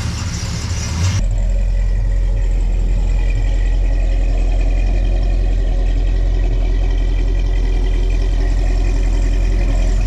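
Ford 390 FE big-block V8 in a 1974 F-100 idling through a freshly fitted, solid-mounted temporary muffler, with a rattle. About a second in, the sound changes abruptly to a steadier, deeper idle.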